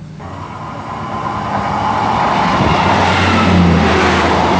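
Class 158 diesel multiple unit approaching through the station, its wheel-on-rail noise and engine drone building steadily louder, with a low engine hum joining about halfway through.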